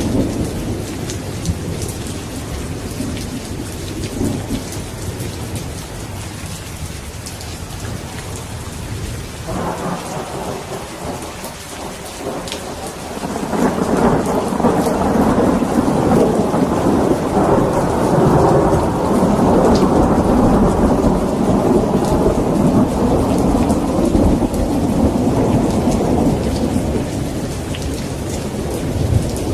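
Steady rain falling during a thunderstorm, with rolling thunder: a low rumble that swells about halfway through into a long, louder roll lasting some fifteen seconds before easing off.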